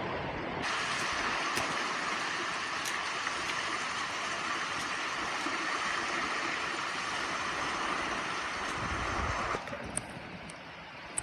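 Steady hiss of heavy rain that starts suddenly about half a second in and cuts off suddenly near the end, leaving a quieter, lower rushing noise.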